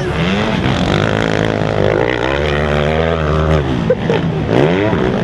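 Motocross dirt bike engines revving on the track, the pitch rising and falling again and again as the throttle is worked.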